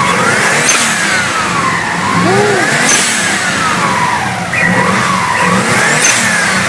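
Subaru Impreza STI Version 6 turbocharged EJ20 flat-four, freshly rebuilt and running for the first time, revved up and down about every three seconds. It runs with no air filter.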